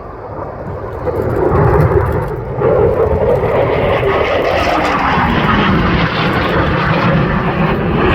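Jet noise of a Eurofighter Typhoon's two Eurojet EJ200 turbofans in a fast, low pass, swelling about a second in and staying loud, with a tone that falls steadily in pitch as the jet goes by.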